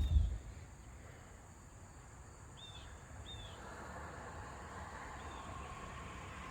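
Outdoor ambience with a few short bird chirps over a faint hiss that swells slightly after the middle, and a low thump right at the start.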